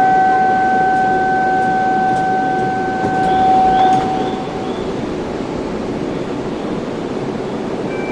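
A steady electronic warning tone sounds as the Shinkansen's doors close, held for about four seconds before cutting off, over the steady hum of the train standing at the platform.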